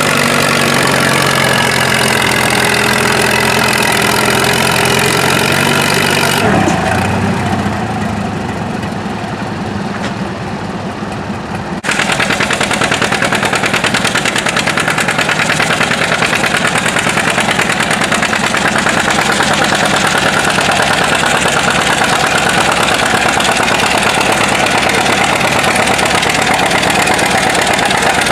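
Antique tractor engine running. The sound changes abruptly about six seconds in, drops somewhat quieter, then at about twelve seconds jumps back up to a loud, even run with a fast firing beat.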